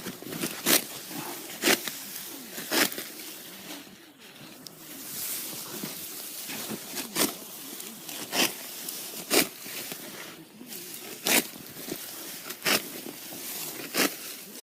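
A serrated sickle slicing through rice stalks, each cut a crisp rasping stroke, about one a second, with a few seconds' pause in the middle.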